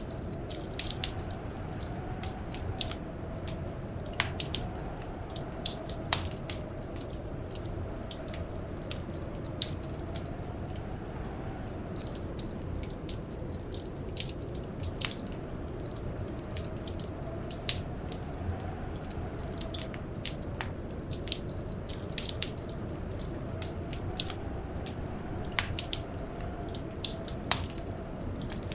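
Wood fire crackling in a fireplace: many sharp, irregular pops and snaps over a steady low rumble, with a faint hum that slowly rises and falls.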